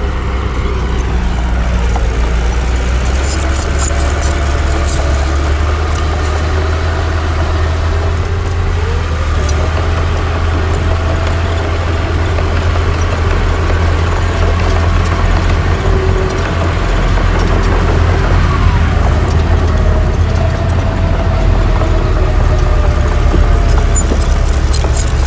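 Heavy diesel engine of earthmoving machinery running steadily under load, with a deep rumble and a shifting mid-pitched whine. Light metallic clicks and clanks come a few seconds in and again near the end.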